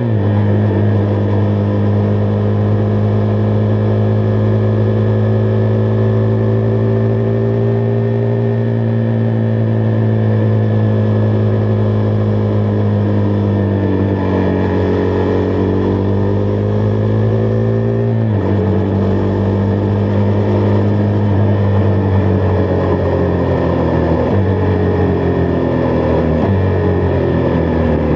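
Husqvarna Vitpilen 401's single-cylinder engine running at a steady cruise. The revs dip and recover about halfway through, change suddenly about two-thirds of the way in, and climb again near the end.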